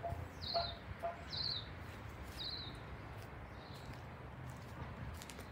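Garden birds chirping: four short high chirps about a second apart over the first three or four seconds, the last one faint, with a few lower short calls alongside them near the start.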